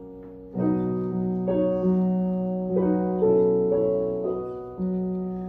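Piano accompaniment playing alone: about half a second in, a chord is struck, and more chords follow every half second to a second, each one held and left to ring.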